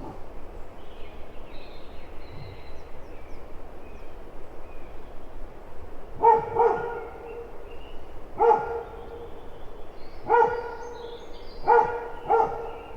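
A dog barking six times, starting about six seconds in, some barks in quick pairs, over a steady background hiss.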